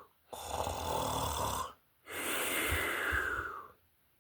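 A person snoring: two long, noisy snore breaths with a low rattle underneath, the second ending shortly before the end.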